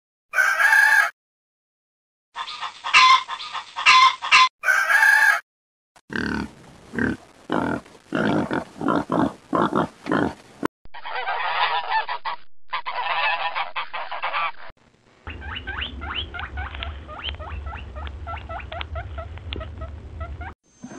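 A string of short farm-animal call clips edited back to back, cut off sharply with brief silent gaps between them, including honking calls and rapid repeated grunt-like calls.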